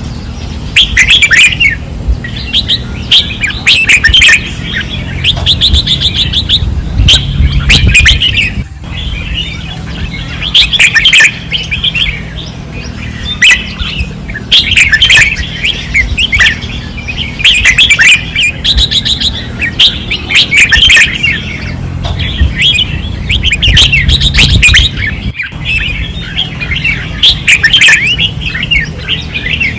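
Red-whiskered bulbuls singing vigorously: short, bright chirping phrases coming in quick succession and overlapping as several birds sing at once, over a low steady rumble.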